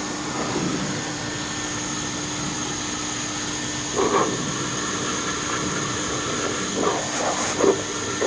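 A vacuum cleaner motor running steadily with a high whine. A few brief handling knocks come about four seconds in and near the end.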